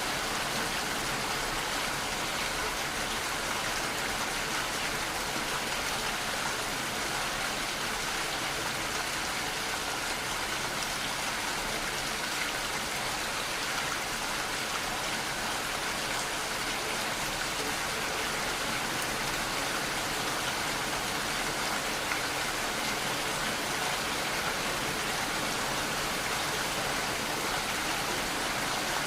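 Steady, even rainfall, a continuous hiss of rain with no distinct drops or thunder.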